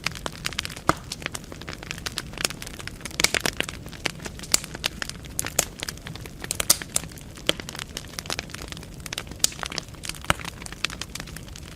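Wood fire burning in a fireplace, logs crackling with frequent irregular sharp pops over a low steady hiss.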